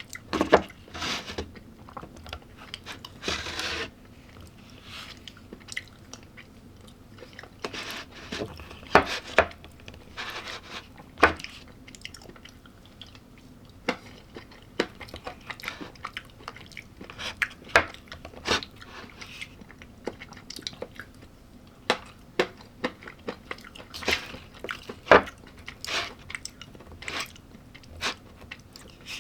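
Close-miked eating sounds: a person biting into and chewing crunchy food, with irregular crunches and sharp mouth clicks.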